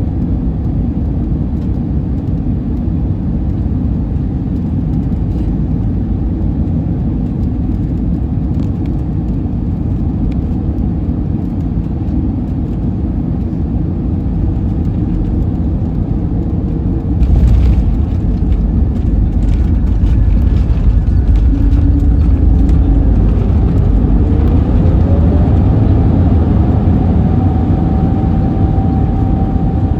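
Cabin noise of an Airbus A321neo landing: a steady engine and airflow rumble. About halfway through it jumps suddenly into a heavier low rumble with rattling, the touchdown and the wheels on the runway. Near the end an engine whine rises and then holds steady.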